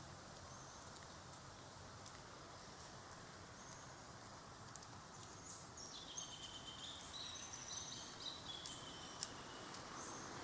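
Faint outdoor ambience with birds chirping in short high-pitched notes, the chirping growing busier about six seconds in.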